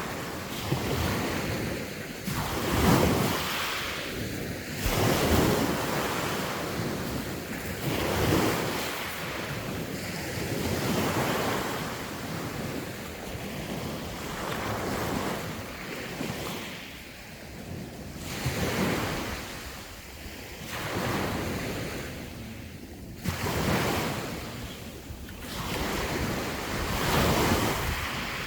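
Sea waves breaking and washing on the shore, swelling and fading every two to three seconds, with wind on the microphone.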